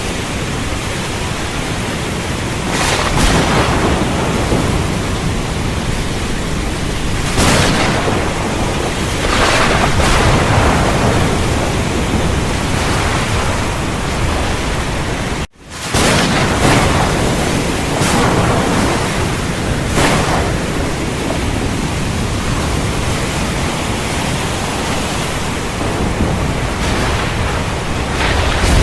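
Heavy rain falling steadily, with several sharp swells that break through it as thunderclaps. The sound cuts out for an instant about halfway through.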